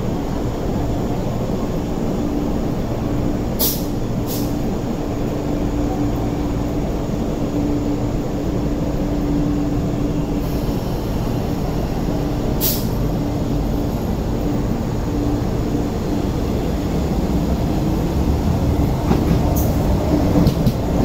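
Steady railway rumble with a constant hum, broken by a few brief sharp clicks. It grows louder over the last few seconds as an MTR East Rail Line R-train electric multiple unit pulls into the platform.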